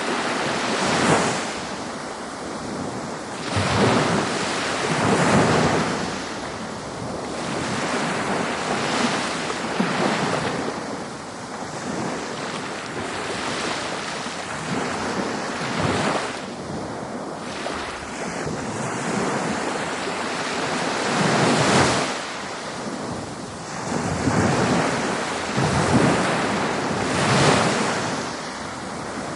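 Ocean surf breaking on a beach: a continuous wash of water, with waves swelling and crashing every few seconds.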